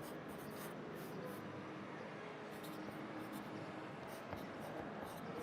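Pencil writing on paper in a run of short scratching strokes, over a steady bed of city traffic noise heard from inside an apartment.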